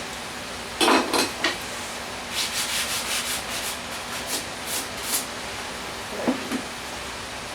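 Short rubbing and scraping strokes, in bursts over a steady hiss: a run of quick strokes in the middle and a couple of separate scrapes near the start and near the end.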